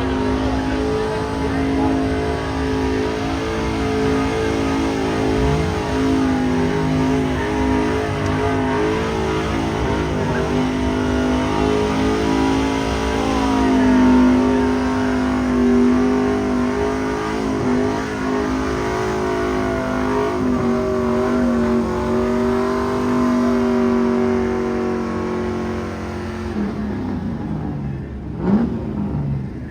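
Car engine running loudly at raised revs, its note held fairly steady with small rises and falls. Near the end the engine note drops away, with a brief loud burst just before the end.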